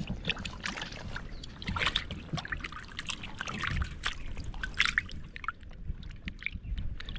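Water splashing and trickling in short, irregular bursts.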